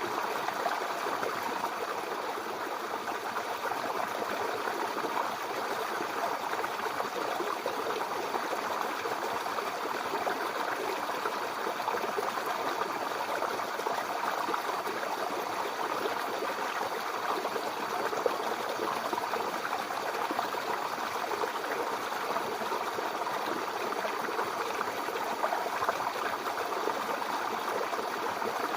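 Mountain river flowing over rocks: a steady rush of water with fine gurgling and splashing, unchanging throughout.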